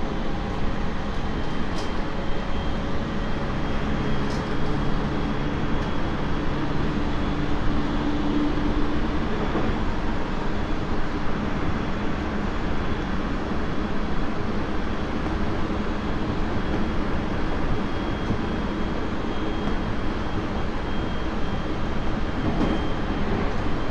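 Running noise inside a Tobu 30000 series electric train's motor car (Hitachi IGBT-VVVF drive) travelling at speed: a steady rumble of wheels on rail. A low hum sits under it for the first several seconds and fades out about nine seconds in.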